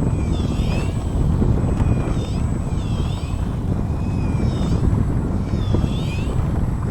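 Steady low rumble of a small leisure fishing boat at sea, with high mewing cries rising and falling about once a second above it.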